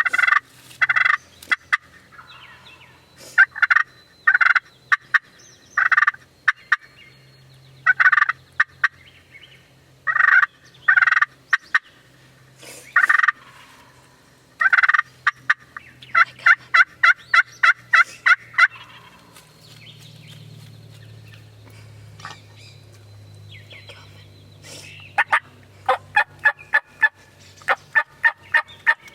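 Wild turkeys calling: loud gobbles over and over, with two runs of quick, evenly spaced notes, one a little past halfway and one near the end.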